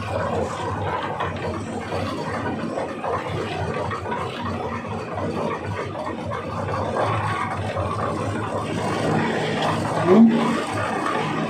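Tractor engine running steadily while driving a transit concrete mixer, with a brief loud rising sound about ten seconds in.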